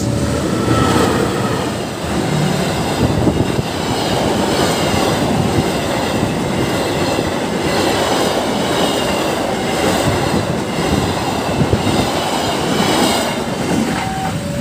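Diesel passenger train, a KAI locomotive hauling coaches, passing close by at speed: engine noise, then the wheels clattering over the rails as the coaches go by.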